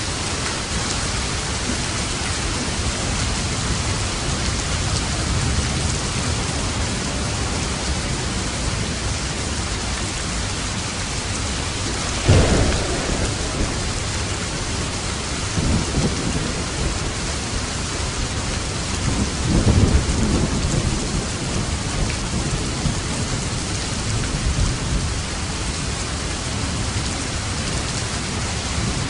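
Steady heavy rain with light thunder: a sharp thunderclap about twelve seconds in, then low rumbles a few seconds apart.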